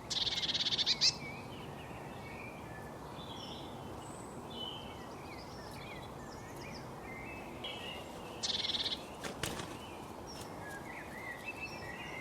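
Small birds chirping and twittering over a steady background hiss, with two louder rapid buzzy trills, one at the start and one about eight seconds in.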